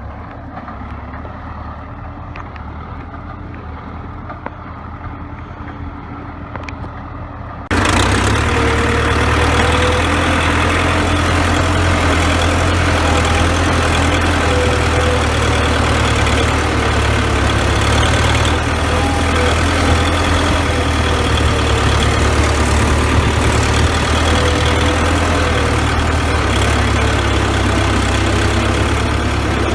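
The four-cylinder diesel engine of a 1960s CASE 580B backhoe runs steadily at low speed. About eight seconds in, the sound jumps suddenly louder and fuller and then stays steady.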